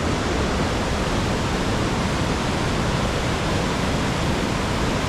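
River running high after heavy storm rain, rushing steadily beneath a footbridge as one even, unbroken wash of water noise.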